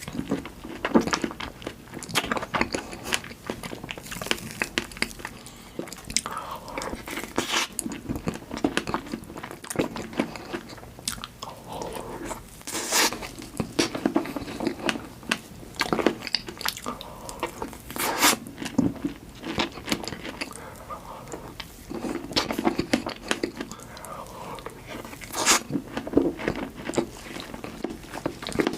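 Close-miked eating of fresh strawberries with Nutella and whipped cream: repeated bites and chewing, with sharp crunches at irregular intervals.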